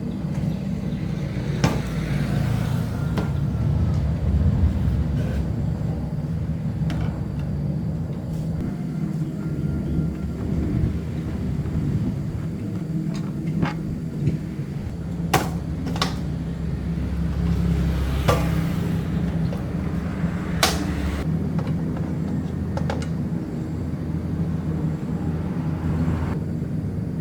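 A motor running steadily with a low hum, with sharp clicks and knocks now and then.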